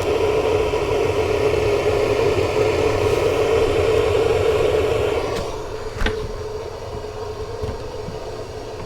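Off-road side-by-side engine running steadily with a low rumble, growing quieter about five seconds in.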